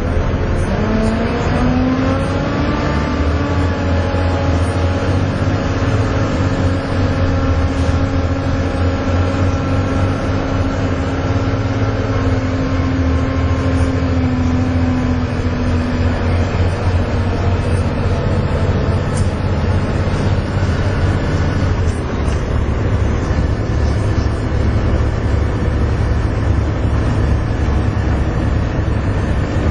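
Volvo B7TL double-decker bus's diesel engine pulling hard, with a steady low drone. Over it a vacuum-cleaner-like whine, the bus's 'hoover', rises in pitch over the first few seconds, holds steady, then fades away about halfway through while the engine drone carries on.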